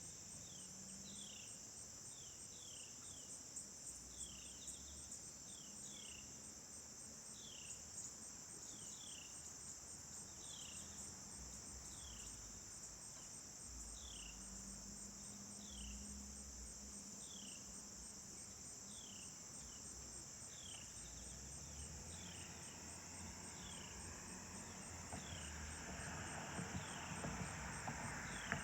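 Steady, high-pitched drone of insects such as crickets, with a short falling chirp repeated about once a second. Near the end a rushing noise builds and grows louder.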